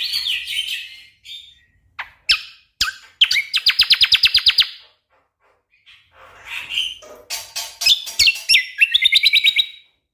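Cucak kombo (kecial kombo) songbird singing in rapid-fire phrases: fast runs of repeated high notes, about eight a second, broken by sharp downward-swept calls and short pauses. The song stops just before the end.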